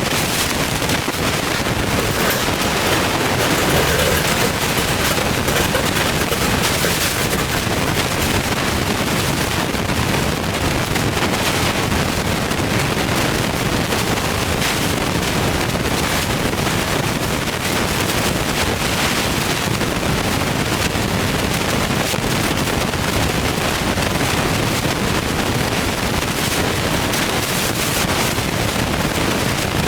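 Turbocharged Ford Boss 302 small-block V8 running steadily at an even level, its exhaust pulses coming in a fast, dense train.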